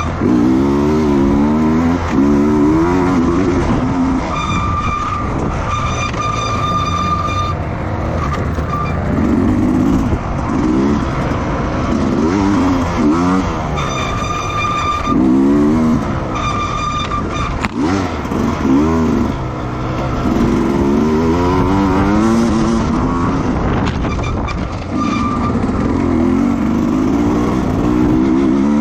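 Racing motorcycle engines on track, revving high with pitch that repeatedly rises and falls as the bikes accelerate, shift and brake, with engine noise running continuously throughout.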